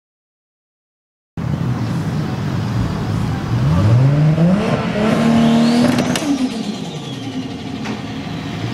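After a moment of dead silence, a car engine accelerates, its pitch climbing for about two seconds, holding, then dropping away, with a high whine that rises and falls around the peak.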